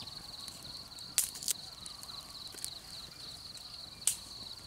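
A steady, high insect trill, finely pulsed, with a few sharp clicks or snaps: a pair about a second in and one near the end, which are the loudest sounds.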